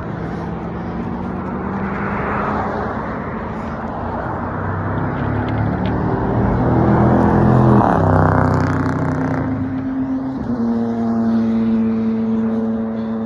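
Street traffic heard from a moving bicycle: a motor vehicle passes close, its engine pitch falling as it goes by about eight seconds in, over a steady rushing noise. Near the end a steady engine hum sets in.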